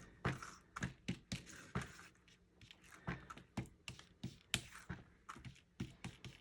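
Light, irregular tapping, a few taps a second with a brief lull partway through, as an ink sponge dauber is pounced on the ink pad and onto cardstock.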